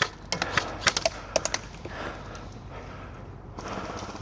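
Airsoft guns firing, heard as a run of sharp, irregular clicking shots in the first couple of seconds, then a quieter stretch of rustling noise.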